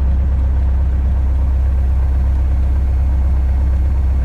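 Van's RV-8's piston engine running steadily at low power while taxiing after landing, a deep even drone.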